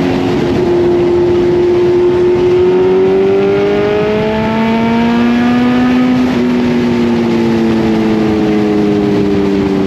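Kawasaki Z900 inline-four engine running under way, its pitch climbing for a few seconds as it accelerates and then slowly easing off.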